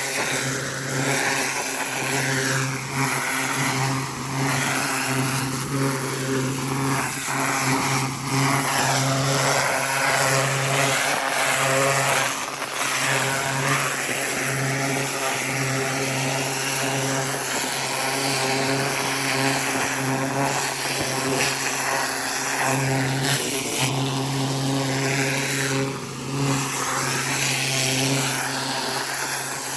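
A 4200 psi pressure washer's engine running steadily at a constant pitch, under the loud hiss of its rotating-nozzle water jet spraying the ground.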